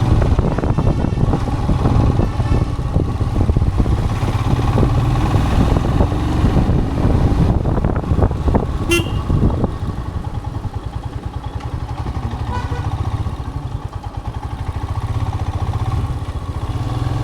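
Royal Enfield Himalayan's single-cylinder engine running steadily while the bike is ridden. A vehicle horn toots briefly about halfway through, and the engine gets quieter soon after.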